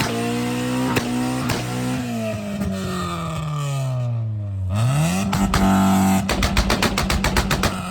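Car engine revving: the revs sag for a couple of seconds, then climb sharply about halfway through. They hold high and loud, with a rapid, even stutter near the end.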